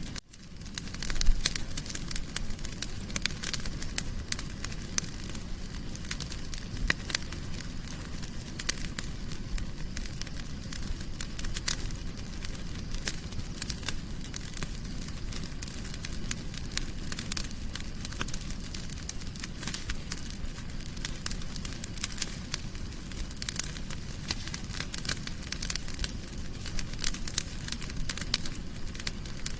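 Wood fire crackling in a fireplace: dense, irregular sharp pops and snaps over a steady low-pitched noise of the burning fire, with one louder pop about a second in.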